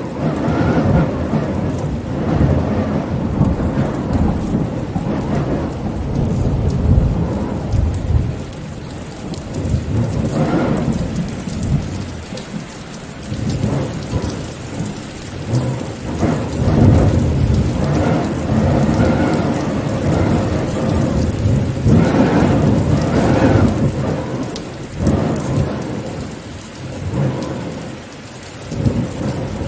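Rainstorm: steady rain with deep rumbles that swell and fade every few seconds.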